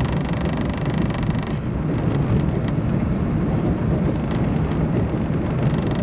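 Cabin noise inside an E4 Series double-deck Shinkansen train while it runs: a steady low rumble from the running gear, with a higher hiss that drops away about a second and a half in.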